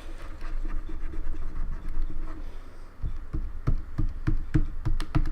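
Scratchy handling sounds, then from about three seconds in a quick run of key clicks, about four or five a second, as keys on a Logitech K360 membrane keyboard are pressed.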